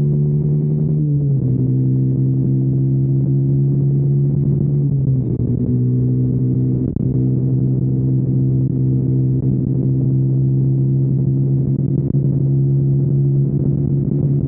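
2021 KTM Duke 125's single-cylinder engine breathing through a Storm GP aftermarket exhaust while riding, holding a steady note. The pitch eases slightly lower about a second in and again about five seconds in, with a brief dip near seven seconds.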